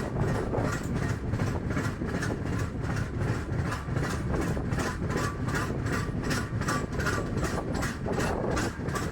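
Indian Railways express train running, with a steady rumble of the coach and a fast, even rhythm of wheel clicks over the rails.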